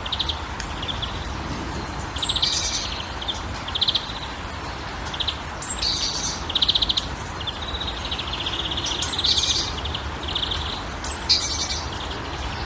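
A songbird sings the same short phrase of chirps and quick trills over and over, about every three seconds, over a steady background hiss and rumble.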